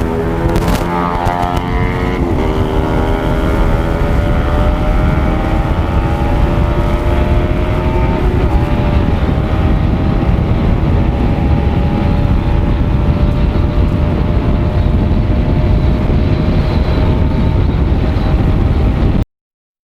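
Motorcycle engine pulling hard at speed, its pitch climbing, with a brief dip about two seconds in like a gear change, then holding high revs. Heavy wind rumble on the microphone. The sound cuts off suddenly near the end.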